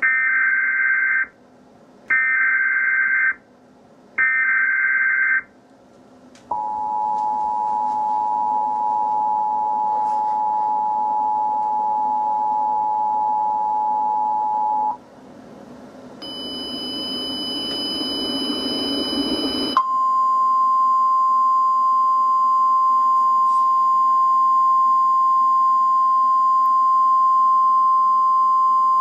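Emergency Alert System alert tones: three short data bursts of the SAME header, then the two-tone attention signal held for about eight seconds. After a few seconds of rising noise comes a single steady alarm tone, the NOAA Weather Radio warning tone, which lasts to near the end.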